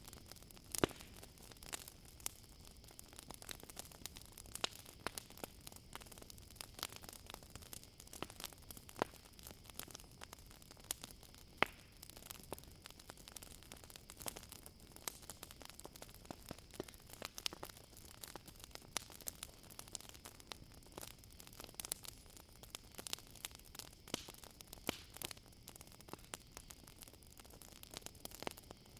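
Campfire crackling: irregular sharp pops and snaps, several a second, a few louder than the rest, over a faint steady hiss. A thin, steady high-pitched drone of night insects runs underneath.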